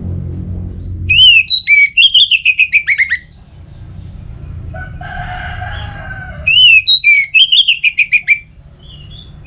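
Orange-headed thrush song: two loud phrases of rapid, falling whistled notes, about a second in and again near seven seconds. Between them comes a lower, drawn-out call, and a low hum runs beneath.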